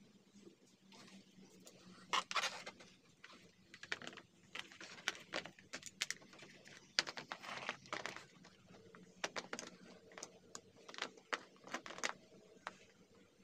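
Irregular clicks, taps and rustles of small parts and plastic being handled during work on an induction cooker's insides.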